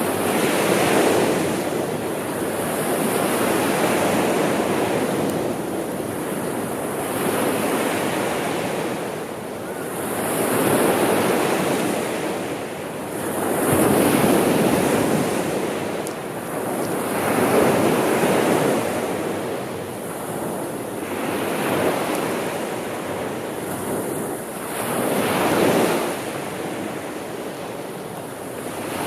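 Sea waves washing in one after another, each wash swelling and then falling away about every three to four seconds.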